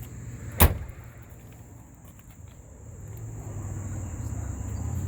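A car door being shut once, a single sharp thud about half a second in, over a steady low hum that grows louder in the second half.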